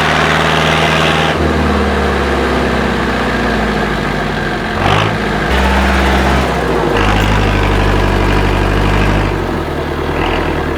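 IFA W50 4x4 truck's engine working under load on an off-road trial course, its revs stepping up and down several times. A short clatter sounds about five seconds in.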